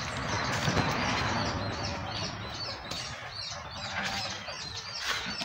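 Small birds chirping in short high notes, about three a second, over rustling and handling noise from walking through vegetation in the first couple of seconds.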